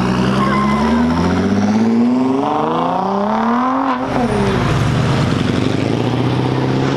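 A car engine accelerating. Its pitch climbs steadily for about four seconds, falls sharply, then holds steady at a lower pitch.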